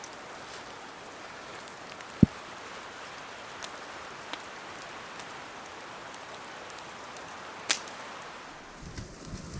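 Campfire burning with a steady hiss and scattered small crackles, one sharp pop a little before the end. A dull thump about two seconds in is the loudest sound.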